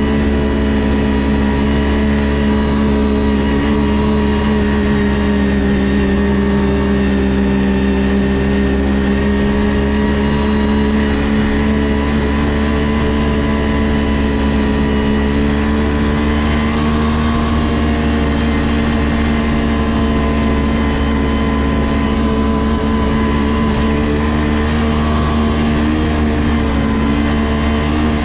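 Ski-Doo GSX 600 H.O. snowmobile's two-stroke twin engine running at a fairly steady speed under way, its pitch rising and falling only slightly.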